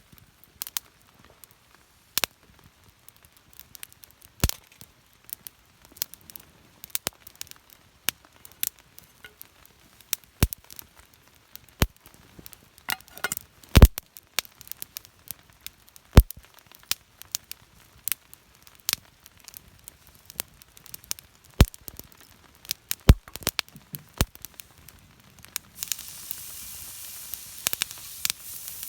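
Wood campfire crackling, with irregular sharp pops every second or so. About 26 seconds in a steady sizzling hiss starts.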